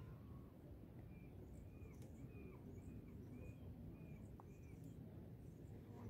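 Faint bird calls: a run of about seven short, arched chirps, roughly two a second, through the middle, with fainter high twitters, over a steady low outdoor rumble.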